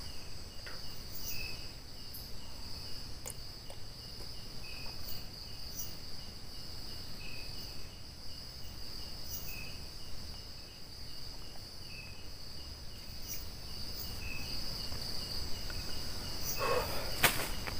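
Night insect chorus of crickets and other insects: a steady high drone with small chirps repeating evenly throughout, over a low rumble. A single sharp click sounds near the end.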